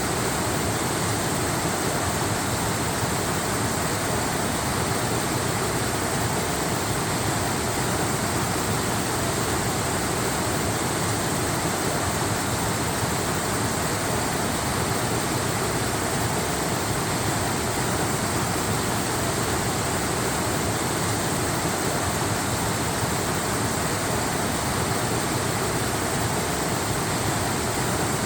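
Waterfall rushing steadily, an even wash of water noise with no breaks or separate splashes.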